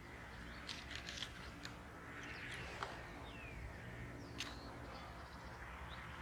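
Small birds calling faintly outdoors: scattered short chirps and a few quick falling notes, with several sharp clicks among them.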